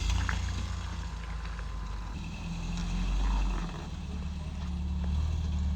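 Steady low drone of a truck driving: engine and road noise that begins abruptly and swells slightly a few seconds in.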